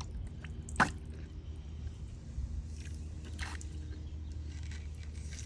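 Small wet sounds of water dripping and squelching in a homemade pipe toilet, with a sharp tap about a second in and a short splashy hiss a little past three seconds, over a steady low hum.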